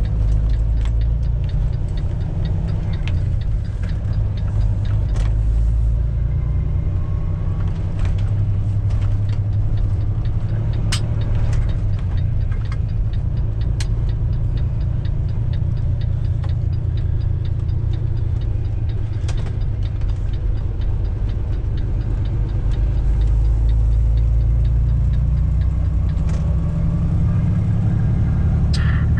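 Semi truck's diesel engine and road noise heard inside the cab while driving: a loud, steady low rumble, with a light rapid ticking over the first several seconds and a few scattered clicks.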